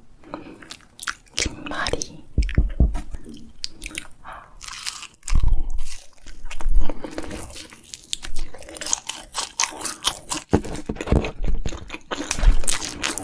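Crunchy bites and chewing close to the microphone, a dense crackle of crisp food breaking between the teeth, with a few heavier bites.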